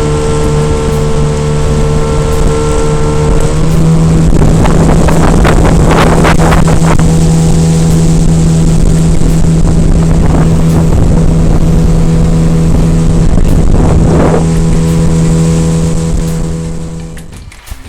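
Outboard motor pushing a jon boat along, running steadily with its pitch stepping up slightly about three and a half seconds in, and the hull slapping the water a few times. Near the end the motor is throttled back and the sound falls away.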